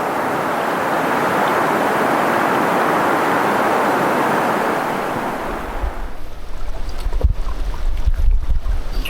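Steady rushing water, like a mountain stream close by, which cuts off about six seconds in. Wind then buffets the microphone in low, gusty rumbles, with a few faint ticks.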